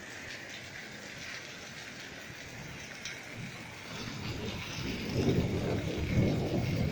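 Steady rain falling, with a low roll of thunder building about four seconds in and loudest near the end.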